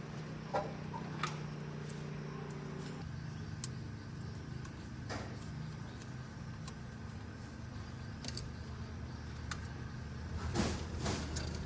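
A motor running steadily with a low hum that steps down in pitch about three seconds in, with scattered light clicks and knocks.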